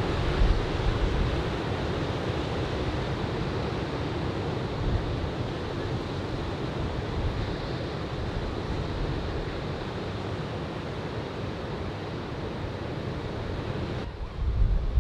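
Ocean surf washing steadily onto the beach, with wind buffeting the microphone in low rumbling gusts that grow heavier near the end.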